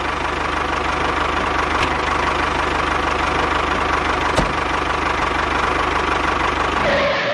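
Small engine idling steadily with a fast, even knocking beat; it cuts off abruptly at the very end.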